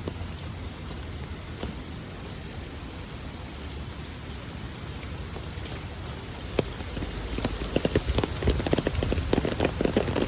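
Heavy rain pouring down in a steady hiss. About two-thirds of the way in, a loud, close patter of sharp drop hits joins it and grows denser.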